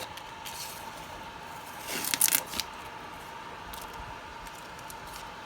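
Hands moving a 3D printer's bed and handling its masking-taped surface, with a short burst of rustling and scraping clicks about two seconds in, over a faint steady hum.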